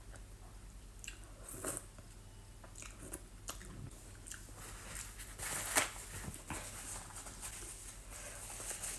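Close-miked eating sounds: a person chewing and biting food, with irregular soft smacks and crunches, the loudest a little past the middle.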